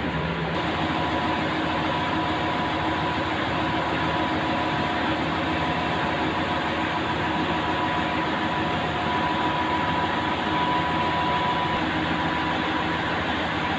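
Prameks commuter train standing at the platform with its machinery running: a steady hum with several held tones over an even wash of noise.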